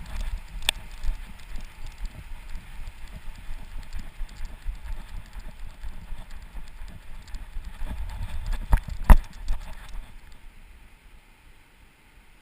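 A dog running with a GoPro Fetch harness camera strapped to it: a low rumble of buffeting and quick, uneven thumps from its footfalls and the jostling mount, with a sharp knock about nine seconds in. The noise dies down over the last couple of seconds as the running stops.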